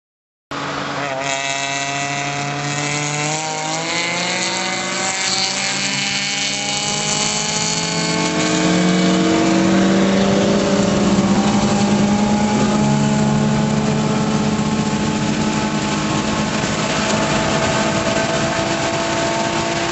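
Mazda 626's KL-ZE V6 engine under hard acceleration, heard from inside the car's cabin, with road and wind noise behind it. It starts suddenly about half a second in, its pitch climbs steadily for the first half and then holds high.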